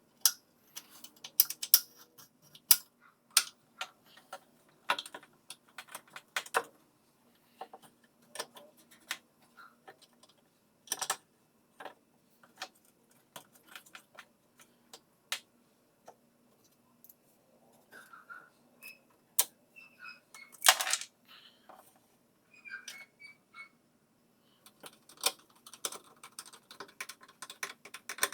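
Irregular clicks and knocks of tools and metal parts being handled while reassembling a top-loading washing machine, with one longer, louder knock about two-thirds of the way through.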